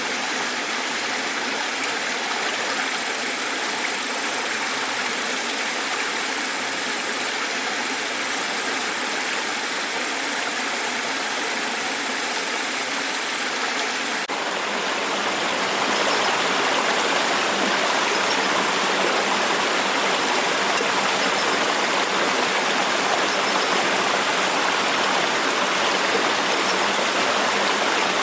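Flowing water, a steady rushing noise; about halfway through it changes abruptly and becomes fuller and louder.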